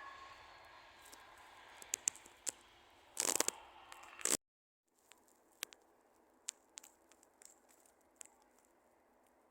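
A fading hiss with scattered clicks and crackles, a louder burst of crackling about three seconds in, then the sound cuts out abruptly. After the cut, faint clicks over a low steady background.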